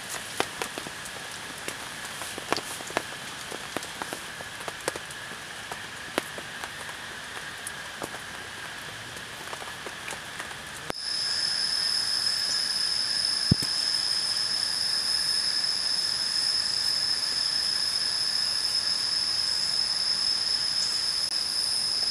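Rain falling, with scattered drops tapping sharply over a faint steady insect drone. About halfway through, the sound cuts to a louder, very high-pitched steady chorus of crickets over the rain. A single sharp tick comes a couple of seconds after the cut.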